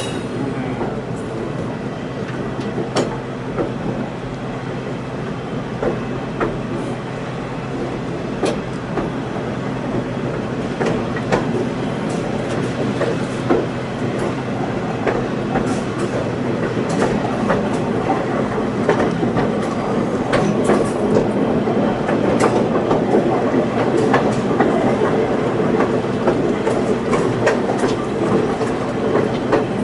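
Excursion train rolling along the track: a steady rumble with irregular clicks and clacks of the wheels over the rail, growing louder through the second half.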